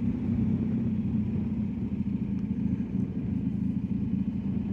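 BMW R1250GS Adventure's boxer-twin engine running steadily at low revs under way, a low even hum with road noise and no change in pitch.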